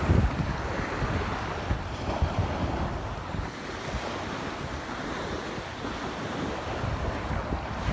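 Wind buffeting the microphone over a steady wash of surf, the gusts strongest in the first few seconds and easing after about three seconds.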